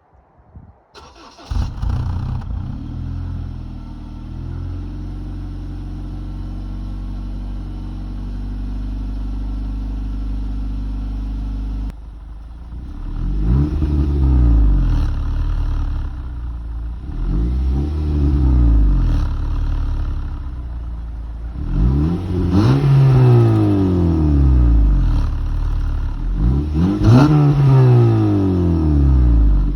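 2015 Honda Civic Si's 2.4-litre four-cylinder engine cranking briefly and catching on a cold start, then holding a steady fast idle. About twelve seconds in the idle drops, and the engine is revved four times, each rev rising and falling quickly, the later ones louder and higher.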